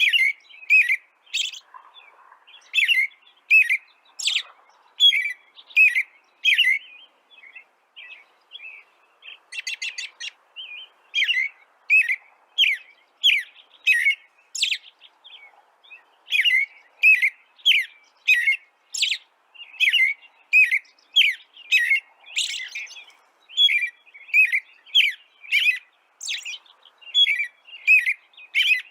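A bird chirping: short, sharp, repeated chirps, about one to two a second, with a brief lull about a third of the way in.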